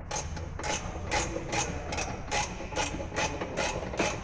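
Repeated hammer strikes, a steady run of sharp blows about three to four a second, over a low steady hum.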